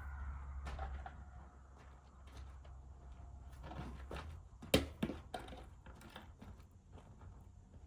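Scattered knocks and clatter of flatbed load guards being handled and moved aside, with one sharp knock about five seconds in. A low hum runs under the first half and fades out.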